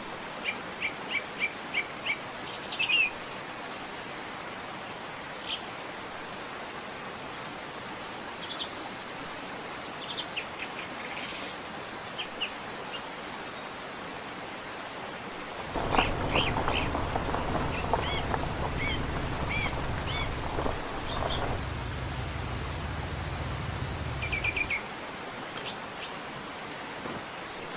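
Mountain stream rushing steadily with small birds chirping over it, including a quick run of about six notes near the start. For roughly nine seconds past the middle, a louder low rumbling noise joins in and then stops.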